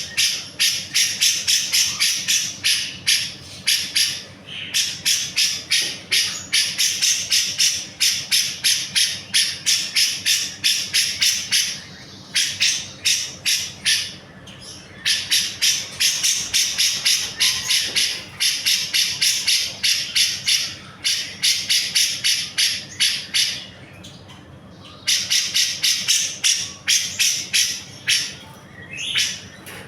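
Cucak jenggot (grey-cheeked bulbul) singing a loud, rapid chatter of sharp repeated notes, about three or four a second, in long runs broken by short pauses.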